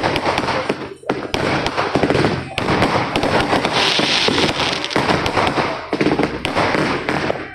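Fireworks and firecrackers going off in a dense, overlapping barrage of sharp cracks and pops, with a brief lull about a second in.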